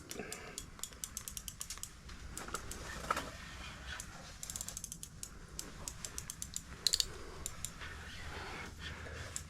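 Fishing reel's drag clicking in irregular runs as a hooked fish pulls line against it; the drag is slipping under the pressure.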